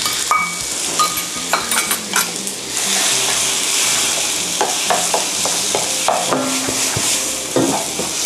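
Beaten egg and rice sizzling in a hot oiled nonstick pan, stirred and scraped with a wooden spatula. A few clinks at first, then a steady sizzle from about three seconds in, with small scraping knocks of the spatula.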